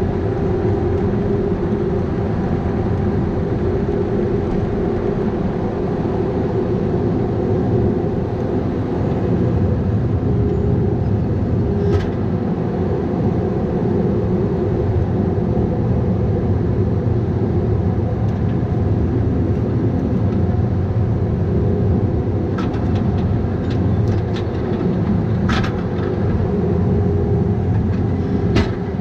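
Bobcat 337G mini excavator's diesel engine running steadily, with a sharp knock about twelve seconds in and a few more knocks near the end.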